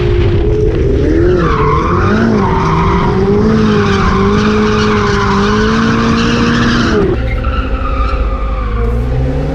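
Car drifting, its tyres squealing over the running engine for about six seconds, then the squeal cuts off suddenly, leaving a quieter engine.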